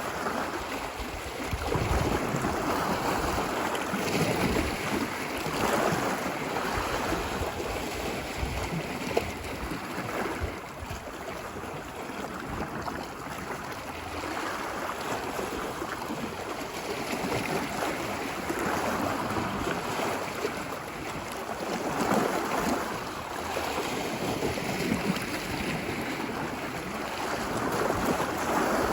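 Ocean waves washing onto a beach, a steady rush of surf that swells and eases every few seconds.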